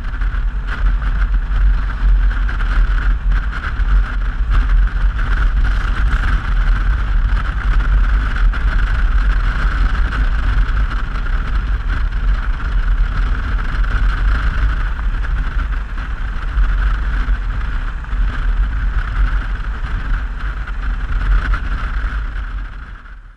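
Steady wind rush and engine noise of a Yamaha XT660Z Ténéré single-cylinder motorcycle riding at speed, with heavy low wind buffeting on the camera microphone. It cuts off abruptly at the end.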